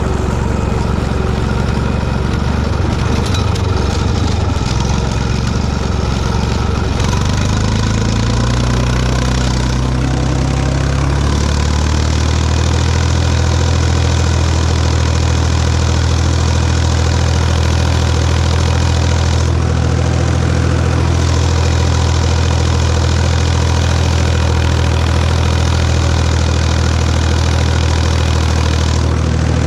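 Tractor engine running steadily while pulling a cultivator, its pitch climbing between about 7 and 12 seconds in as the revs rise, then holding steady.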